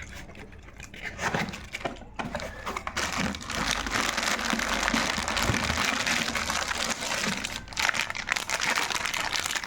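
Packaging being handled as an electric kettle is unboxed: scattered rustles and clicks, then from about three seconds in a continuous crinkling of wrapping.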